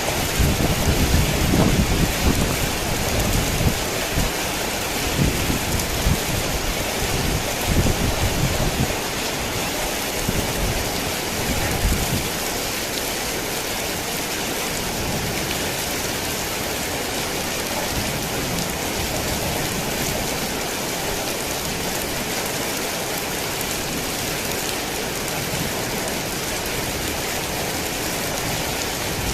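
Heavy rain pouring steadily, with thunder rumbling low through the first ten seconds or so, then rain alone.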